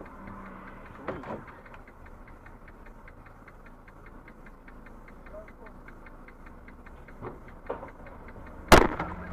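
Steady, rapid ticking, about three to four ticks a second, over a car's engine idling. A single loud, sharp thump comes near the end.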